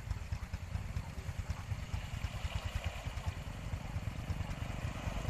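Small motorbike engine running steadily with a rapid low putter.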